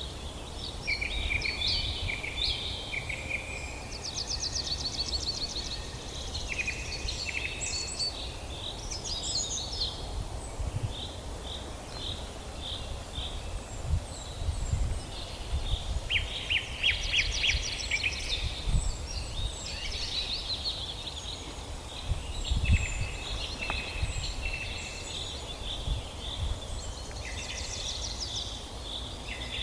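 Several songbirds singing over one another, a steady stream of chirps, rapid trills and short whistled phrases, over a low background rumble.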